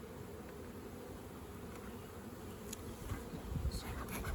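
Honeybees from an opened hive buzzing as a steady, fairly faint drone, with some low rumbling near the end.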